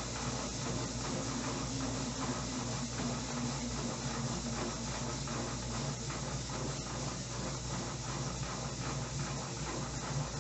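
Electrolux LTE09 top-loading washing machine in its spin cycle: a steady hum with an even hiss over it.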